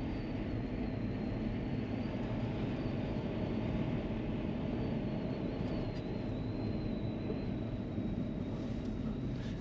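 Steady road noise of a four-wheel-drive vehicle being driven on pavement: engine and tyre drone with no change in pace, plus a faint high, thin whine.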